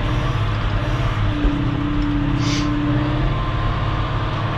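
Engine of an earthmoving machine running steadily as it drives over freshly laid aggregate base, packing it down. A steady higher tone joins for about two seconds midway, and a brief hiss comes about halfway through.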